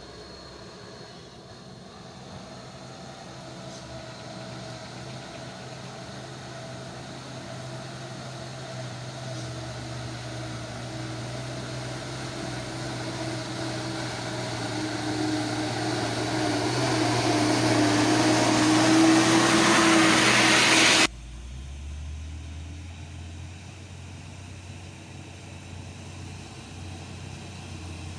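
Diesel engine of a loaded coal truck pulling hard up a long climb, growing steadily louder as it draws near. About three quarters of the way through it cuts off abruptly to a quieter, lower engine drone.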